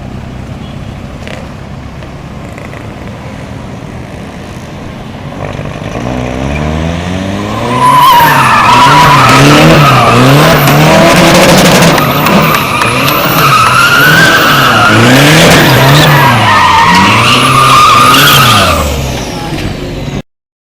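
A Toyota 1KD-FTV 3.0-litre four-cylinder common-rail turbodiesel, modified for drag racing, running steadily and then building hard to full power about eight seconds in. For the next ten seconds its pitch repeatedly rises and falls, with a high whine over it. Then it drops away and cuts off suddenly.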